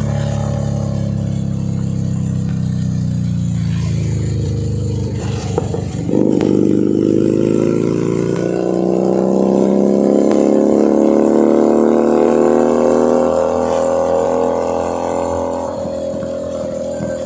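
Keeway SCR 250V motorcycle engine and exhaust under way. The engine note winds down over the first few seconds. About six seconds in it picks up and revs rise steadily for around nine seconds, then the throttle eases off near the end.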